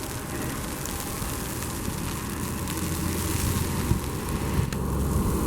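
Wind blowing hard across the microphone in a snowstorm, a steady rushing noise with a heavy low rumble that grows stronger after the middle.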